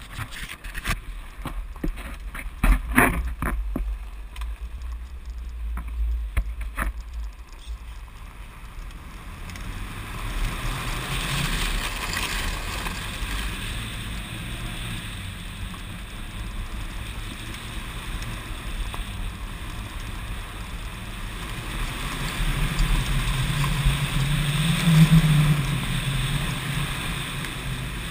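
The turbocharged flat-four of a 2007 Subaru WRX, fitted in an older Impreza, running under load as the car drifts, with the tyres hissing through loose gravel. Through the first third, wind buffets the camera held outside the window, with a few sharp knocks. The engine is loudest about twenty-four seconds in.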